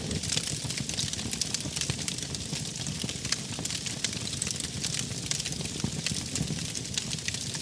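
Wood fire crackling with frequent sharp pops and snaps over a low steady rumble of burning logs.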